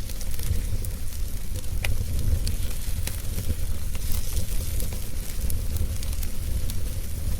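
Campfire burning: scattered small crackles and pops over a steady low rumble.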